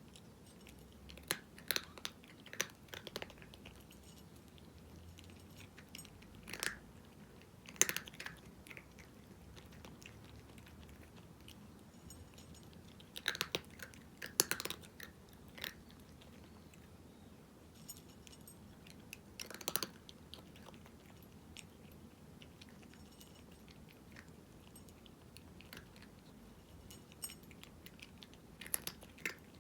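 A cat crunching dry kibble, in scattered bursts of sharp crunchy chewing with quieter pauses between mouthfuls.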